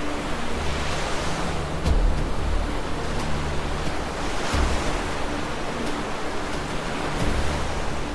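Tsunami floodwater rushing and crashing: a dense, steady wash of water noise with a deep rumble beneath, swelling louder about two seconds in and again past the middle.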